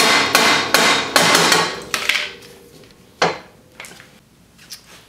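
Hammer blows on the steel suspension, knocking the lower A-arm out of a UTV's front suspension. About six quick strikes in the first two seconds ring briefly, then comes a single hard blow about three seconds in and a few light taps.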